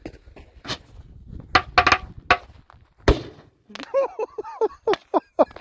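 Firework mortar going off inside an old stove and dishwasher: a few sharp cracks, then a heavy boom about three seconds in. A man's voice follows in short, repeated cries.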